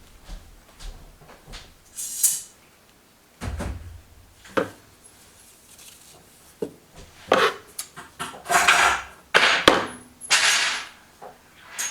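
Handling noises: a string of irregular knocks and clicks with several louder rustling scrapes, busiest in the second half.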